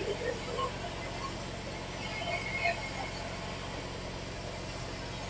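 Steady low hum, with faint scattered small clinks and murmurs over it.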